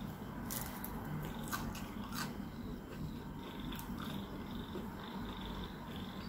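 Crunchy french fries being bitten and chewed close to the microphone: a few crisp crunches in the first couple of seconds, over a steady low hum.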